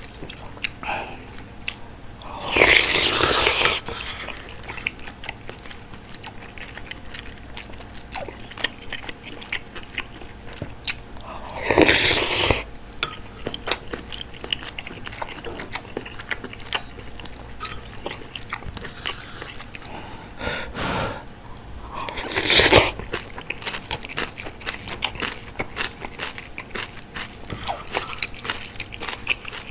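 Close-miked eating of bulgogi hot pot: wet chewing and small mouth clicks throughout, with three louder sounds about a second long near the start, about twelve seconds in and about twenty-two seconds in.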